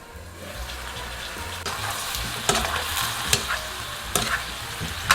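Skin-on potatoes braising in a pan of oil, syrup and water, sizzling steadily, with a utensil knocking against the pan about five times as they are stirred.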